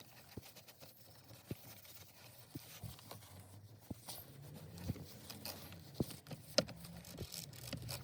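Faint, scattered taps and knocks of handling and cleaning work inside a car's cabin, with a low hum coming in about four seconds in.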